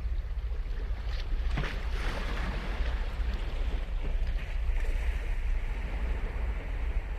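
Ocean waves breaking on the shore: one wave crashes about a second and a half in, and another surge of surf washes in near the middle, over a steady low rumble.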